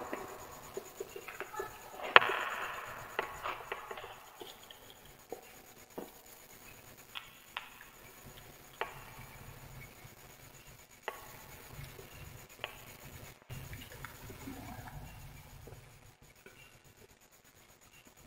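Wood fire crackling: irregular sharp pops and snaps over a low hiss, the loudest pop about two seconds in, the pops growing sparser and fainter toward the end.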